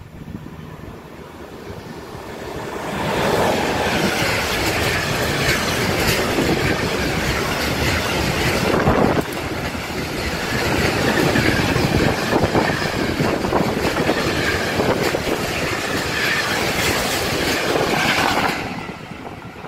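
Freight train of tank wagons passing close by: loud, steady rolling noise of wheels and wagons with many short clicks. It builds over about three seconds as the train arrives and falls away shortly before the end as the last wagon goes by.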